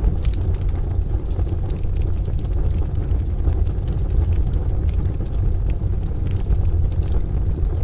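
Wood fire crackling with scattered sharp pops over steady rain and a deep continuous rumble.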